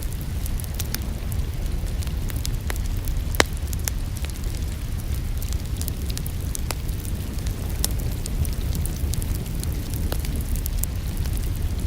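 Wood fire in a fireplace crackling, with scattered sharp pops over a steady low rumble; one louder pop comes about three and a half seconds in.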